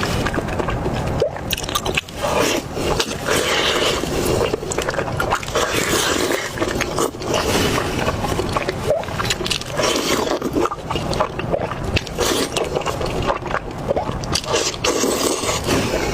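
Close-miked chewing of a pork skin roll: continuous mouth sounds with many small clicks, crunches and smacks.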